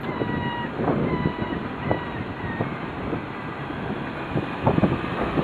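Gusty wind rumbling on a small camera's microphone, over the sound of cars in a car park, with a faint high whine in the first second.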